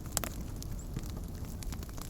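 Wood campfire crackling: scattered sharp pops over a steady low rumble of burning, with one louder pop just after the start.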